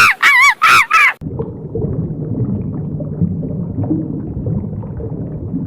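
Animal calls: a fast run of loud, high, arching calls, about three a second, that stops about a second in, then a low, continuous grumbling rumble.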